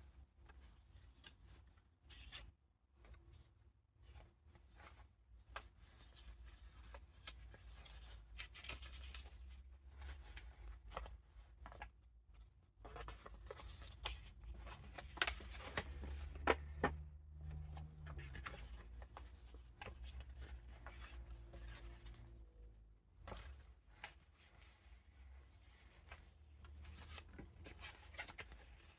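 Paper pages and vintage ephemera of a junk journal being turned and handled: soft rustling and crinkling with scattered light taps, busiest in the middle, over a low steady hum.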